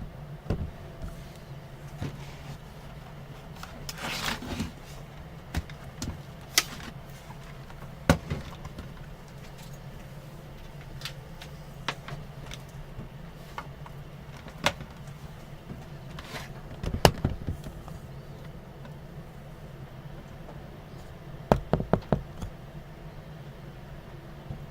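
A steady low hum with scattered sharp clicks and knocks, as of small hard objects being handled and set down, a cluster of several coming together about 17 seconds in and again about 22 seconds in.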